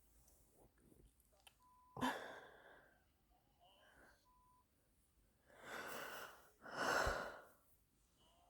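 A person breathing: three loud, noisy breaths, about two seconds in and twice near the end.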